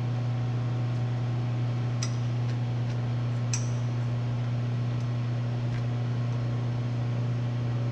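Steady low electrical hum of running shop machinery, with a couple of light metallic clicks about two seconds and three and a half seconds in.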